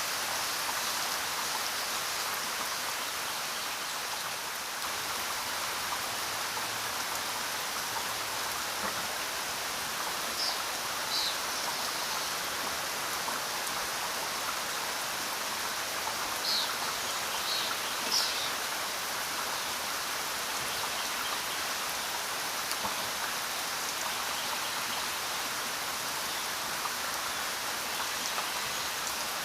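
Steady rain falling, an even hiss of drops. A few brief, higher-pitched sounds stand out between about ten and eighteen seconds in.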